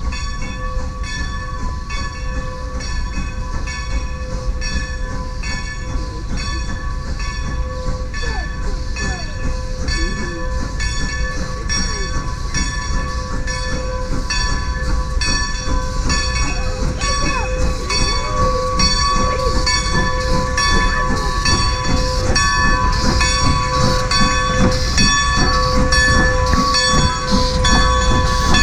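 A railroad bell ringing steadily in an even rhythm, its ringing tones hanging on between strokes, over a train's rumble that grows gradually louder.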